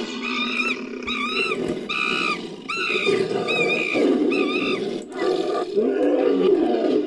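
Designed ape-monster sound effect: a quick series of about eight short, arched screeching calls in the first three and a half seconds, layered over a low growling roar that carries on alone to the end.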